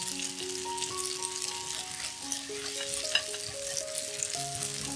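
Flat rice noodles sizzling in hot oil in a nonstick wok as they are stir-fried with chopsticks, the noodles just coated with dark soy sauce. Soft background music with held notes plays underneath.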